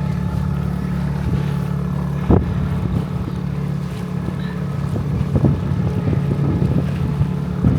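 A small boat's motor running steadily, with wind on the microphone. A single sharp knock comes a little over two seconds in.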